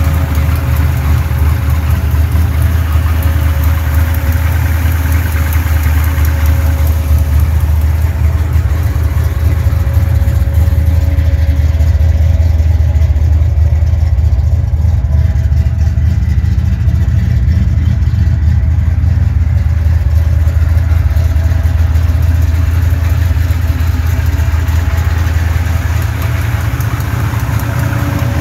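The 1988 Chevrolet Monte Carlo LS's 383 small-block V8 idling steadily with a low rumble. The higher, clattery part of the sound fades for a while in the middle, then comes back.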